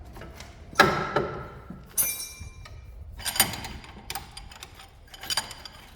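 Steel hand tools clanking against the suspension parts as a breaker bar and socket are worked onto a tight bolt. There are four or so sharp knocks, the loudest about a second in, and one ringing metallic clink about two seconds in.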